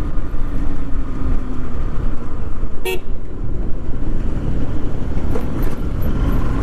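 Motorcycle ride on the highway: steady wind and engine rumble on the helmet camera's microphone, with a single short vehicle horn toot about three seconds in.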